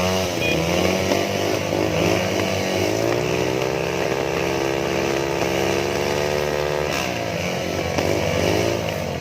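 Motorcycle engine running, its revs rising and falling, then held steady for a few seconds before dropping back.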